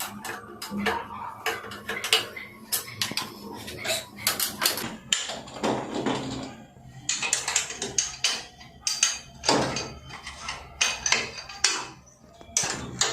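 Repeated small metallic clinks and knocks, as of metal tools or parts being handled and tapped against one another.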